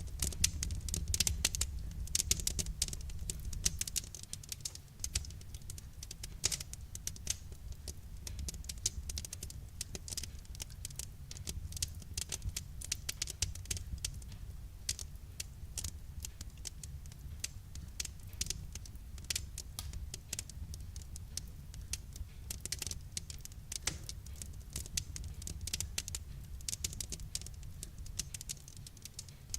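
Wood fire crackling: a dense, irregular run of small pops and snaps over a low steady rumble of the flames, a little busier in the first few seconds.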